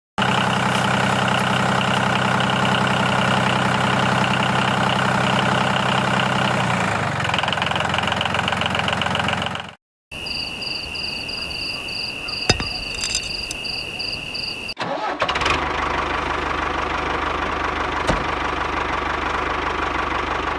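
Small motor of a homemade miniature tractor pumpset running steadily, heard in three separate stretches with abrupt cuts between them. The middle stretch carries a steady high-pitched whine.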